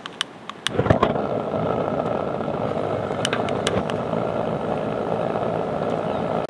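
Vehicle driving, with steady engine and road noise that starts about a second in after a few sharp clicks. More clicks are heard in the middle, and the sound cuts off suddenly at the end.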